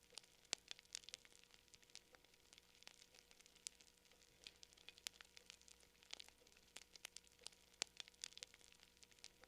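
Campfire crackling: wood snapping and popping in irregular sharp clicks, with a louder pop about half a second in and another near the end.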